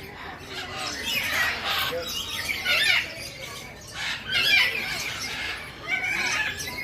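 Caged parrots squawking, several harsh, shrill calls in turn.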